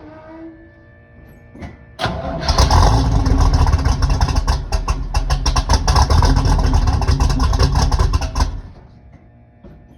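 A 454 big-block Chevy V8 fed by a Holley 850 carburettor, on a cold start after winter storage. About two seconds in it suddenly fires and runs loud through its Magnaflow-muffled exhaust for about six seconds, then stops and goes quiet.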